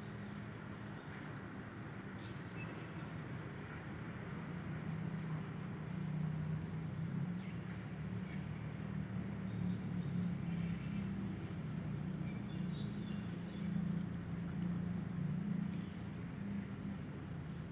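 A steady low mechanical hum runs throughout, with short, faint high chirps from birds scattered over it.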